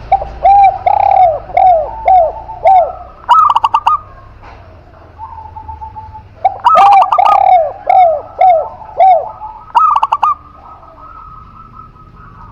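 Doves cooing: two phrases of about six arched, rhythmic coo notes, each followed by quicker, higher rolling notes. The second phrase begins about halfway through, and a short rolling burst follows near the end.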